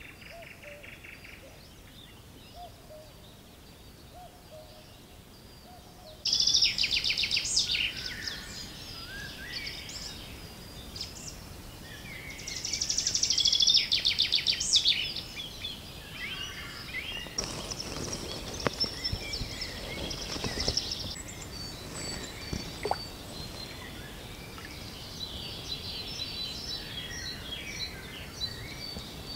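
Songbirds singing: loud, rapid high trilling phrases about six and about thirteen seconds in, with quieter chirps through the rest. A short patch of soft, rushing noise comes about two-thirds of the way through.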